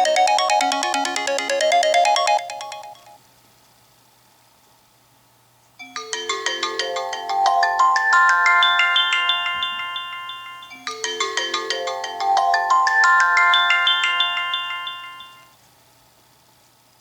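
iOS 7 preset ringtones played on an iPod touch. One ringtone fades out about three seconds in. After a short quiet, another starts: a quick melody of bright chiming notes, played twice through.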